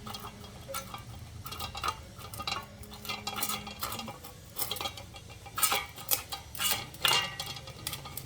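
A small dog eating from a bowl: irregular crunching and clinking, busiest in the second half.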